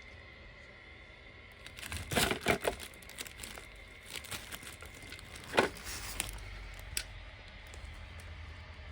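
Packaging being handled during an unboxing: plastic wrapping crinkling and rustling in irregular bursts, with a run of sharper crackles about two seconds in and a couple of single clicks later.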